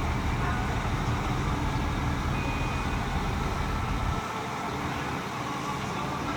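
Heavy diesel construction machinery running with a steady low rumble; the deepest part of the rumble falls away about four seconds in, as if the engine eases off.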